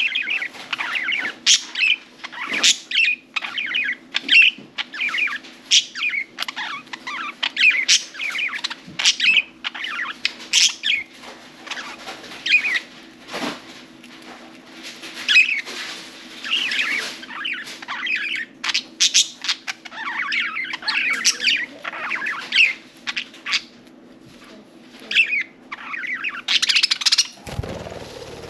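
Budgerigars chirping and chattering in quick, overlapping calls, over a steady low hum. A low thump near the end.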